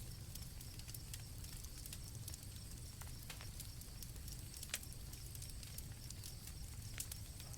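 Campfire crackling, with irregular sharp pops over a low steady rumble, while crickets chirp in a steady high trill.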